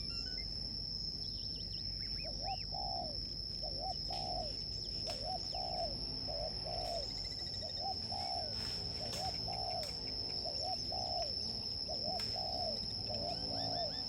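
Birds calling outdoors: a low two-note call repeated roughly once a second from about two seconds in, with scattered higher chirps, over a steady high-pitched insect drone.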